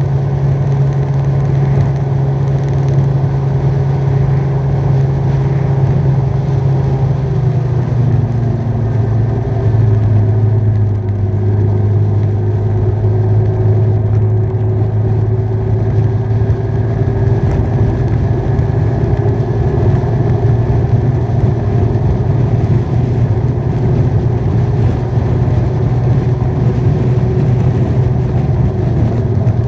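Motorbike engine running steadily at road speed, with wind noise. Its note drops a little about eight seconds in, as if from a gear change or easing off.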